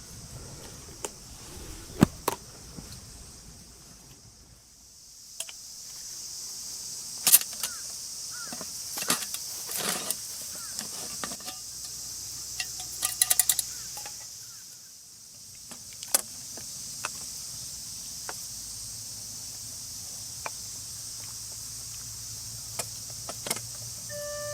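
A steady high-pitched hiss with scattered sharp clicks and knocks, as of camp cookware and gear being handled.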